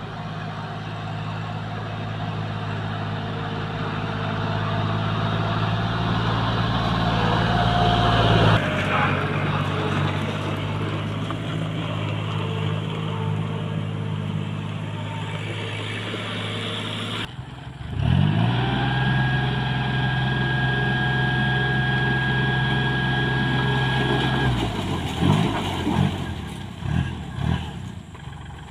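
Diesel engine of a palm-fruit hauling machine running steadily. It revs up sharply about two-thirds of the way in and holds high with a thin whine over it, then drops and surges unevenly near the end.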